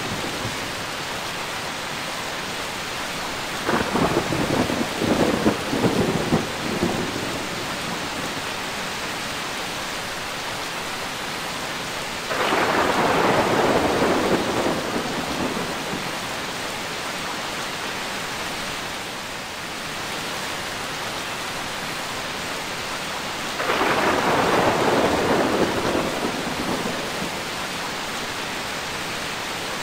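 Steady rain falling through a thunderstorm, with three rolls of thunder: a crackling one about four seconds in, then two that break in suddenly around twelve and twenty-four seconds in, each rumbling for about three seconds before fading back into the rain.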